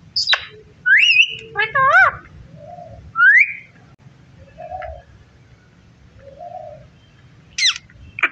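Indian ringneck parrot calling: short rising whistles and warbling squawks, several in the first three and a half seconds and again near the end. Soft low notes come between them.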